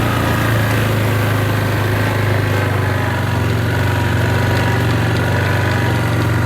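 A vehicle engine running steadily at low revs with an even, unchanging hum.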